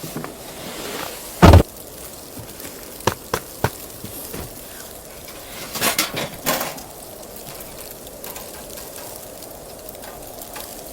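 A single heavy thump about a second and a half in, then a few light knocks and a short cluster of scraping knocks around six seconds in, over a steady low hiss.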